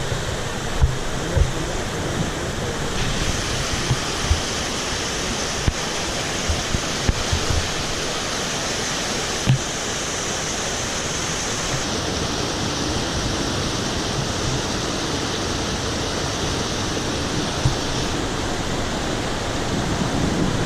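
Monsoon-swollen mountain stream rushing steadily, with several short low thumps.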